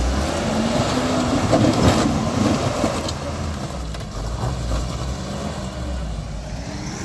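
Off-road 4x4's engine running hard under load on a climb, its pitch wavering, loudest about two seconds in and then easing off.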